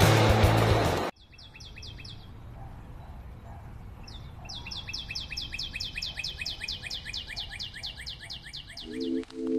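Loud music cuts off abruptly about a second in, giving way to a bird calling in a fast run of short, high chirps, about seven a second, in two bouts, the second and longer starting about four seconds in. A new piece of music begins near the end.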